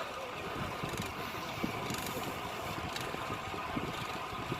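Steady road and traffic noise heard while riding a bicycle, with a few small ticks.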